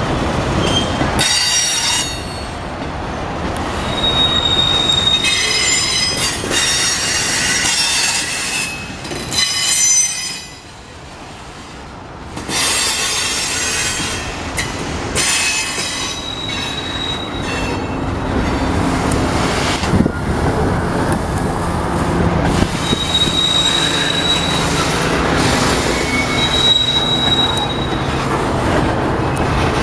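Slow-moving Union Pacific freight train's cars rolling past: a steady rumble of wheels on rail, with high-pitched wheel squeals that come and go every few seconds and a single sharp knock near the middle.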